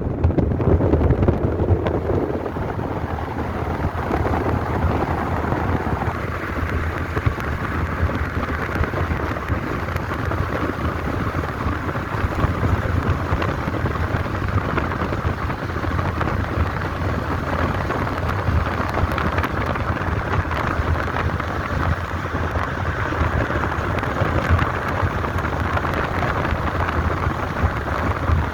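Wind rushing and buffeting the microphone in a moving car, a steady rushing noise over a deep low rumble.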